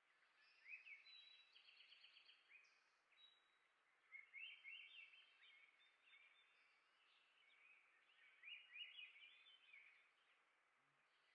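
Faint small songbirds chirping in quick runs of short rising notes, coming in three bouts, over a light steady hiss.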